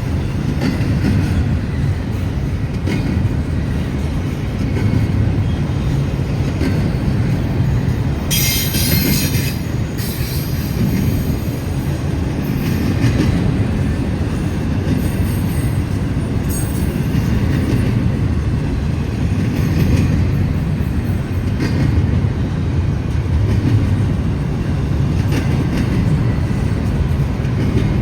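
Freight train cars rolling past close by with a steady low rumble, and a burst of high-pitched wheel squeal about eight seconds in, followed by fainter squeals.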